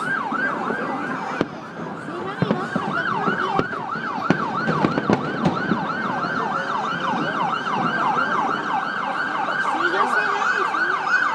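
Emergency vehicle siren in fast yelp mode, its pitch sweeping up and down about three times a second without a break. A few sharp pops sound faintly beneath it.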